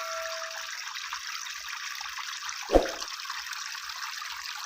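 Steady trickle of water falling through a small pump-driven tabletop waterfall fountain. The ringing tail of a chime fades out at the start, and there is a single short thump a little under three seconds in.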